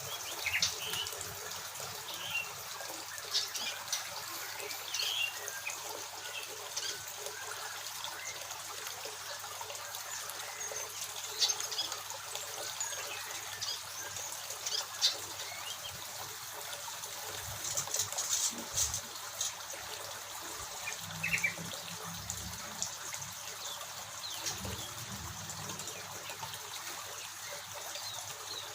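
Aviary birds giving short, high chirps scattered throughout, over a steady trickle of running water.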